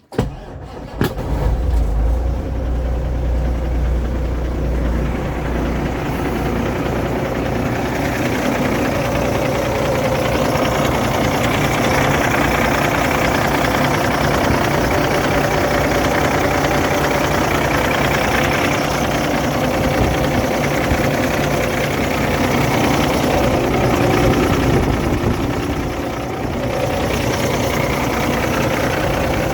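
2010 Peterbilt 387's diesel engine cranking and catching, with a heavy low rumble for the first few seconds. It then settles into a steady idle.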